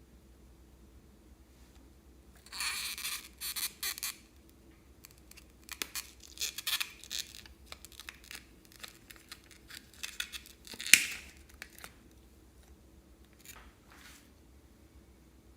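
Slime being squished and worked by hand: crackly, wet-sounding bursts in two runs of a second or two each, with small clicks and one sharp pop about eleven seconds in.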